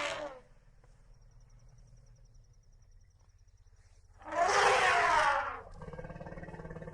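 An animal cry, harsh and about a second long, comes about four seconds in, after a few seconds of faint steady high-pitched hum.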